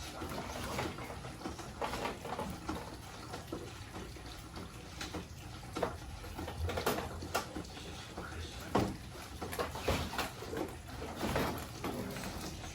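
Water running with scattered short knocks and clatter in a small room.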